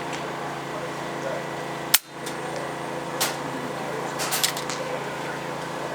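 A single sharp crack of a PCP air rifle shot about two seconds in, followed by a few lighter clicks, over a steady background hum.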